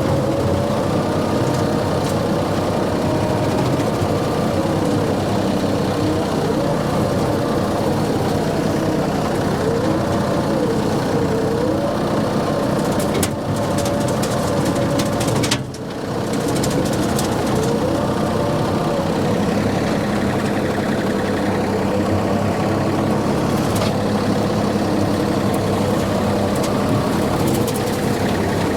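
Tractor engine running steadily while driving a brush hog rotary cutter, its pitch wavering up and down, with two brief dips in level a little before the middle.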